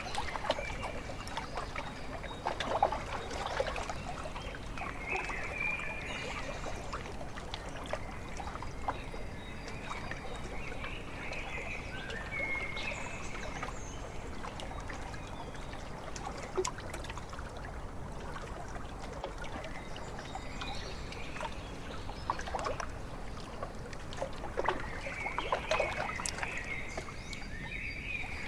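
Small waves lapping and splashing against a lakeshore, with a steady wash of water. Short bird calls come in now and then, near the start, about a third of the way in, near the middle and again near the end.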